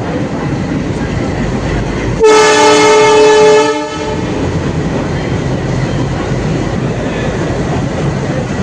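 A locomotive horn sounds one blast of about a second and a half, over the steady rumble of a train at a station.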